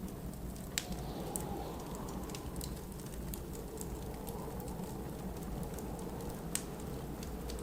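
Wood fire crackling, with scattered sharp pops, over a steady low rumble of blizzard wind.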